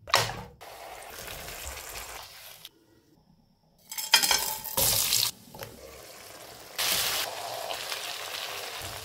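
Cooking sounds: food sizzling as it fries in a pan, with stirring, heard as short clips that cut in and out abruptly, with a second of near silence in the middle.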